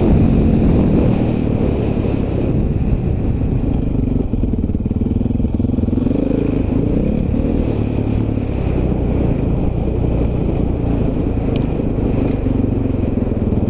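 Dirt bike engine running while riding, its pitch rising and falling with the throttle.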